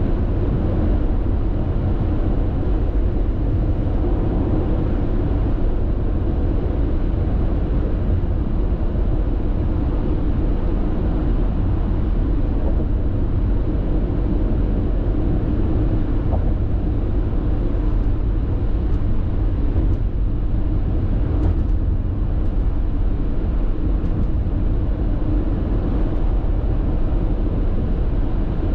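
Steady tyre and road noise heard inside a car's cabin while driving on an expressway, a deep rumble that holds level throughout, with a few faint ticks about two-thirds of the way in.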